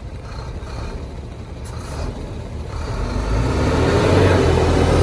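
Heavy diesel engine of earthmoving machinery running, its low rumble building and growing louder about three seconds in as it comes under load.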